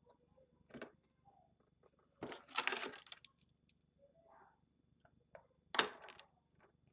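A few short rustling, scraping handling noises, the longest and loudest about two seconds in and another near the end.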